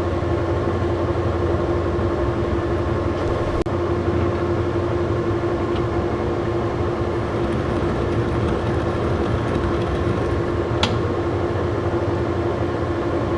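Old Monarch engine lathe running steadily under power while single-point cutting a thread, a constant hum with a steady held whine. One light click near the end.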